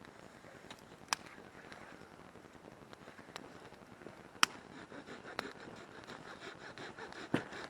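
Wood campfire burning with a low hiss, popping sharply about five times, loudest near the middle.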